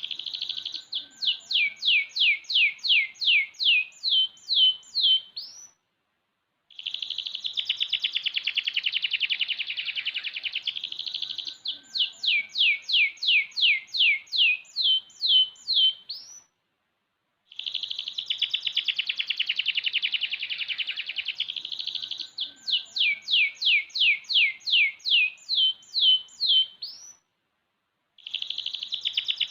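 Young domestic canary, about six months old, singing in full voice: each phrase opens with a fast, dense trill and ends in a row of about a dozen quick downward-sweeping whistled notes. The phrase comes three times, with a brief silence between phrases.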